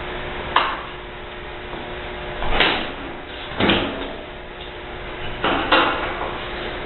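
Dishwasher parts being handled during disassembly: a sharp click, then several short clunks and scrapes, each like a part being pulled or slid out.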